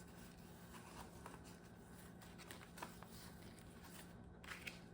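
Near silence with a few faint rustles and taps of paper banknotes being handled.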